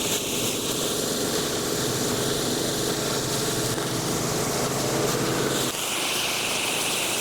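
Gas-powered pressure washer running, a steady engine hum under the hiss of the water spray. About three-quarters of the way through the engine hum drops away and the spray hiss gets stronger.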